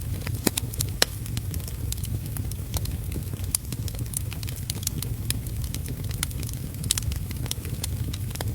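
Wood fire in a fireplace crackling, with irregular sharp pops and snaps, the loudest about a second in, over a steady low rumble.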